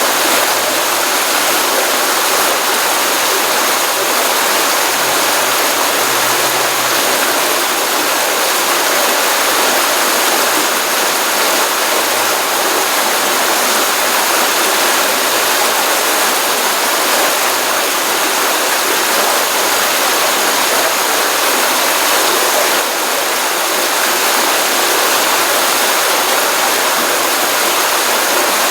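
Small stream running steadily, a continuous rush and splash of flowing water. A faint steady high tone runs beneath it.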